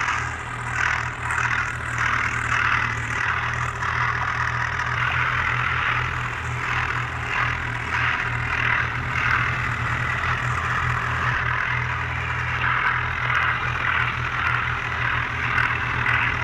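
Tractor diesel engine running steadily with a rapid low pulsing and a rattling clatter.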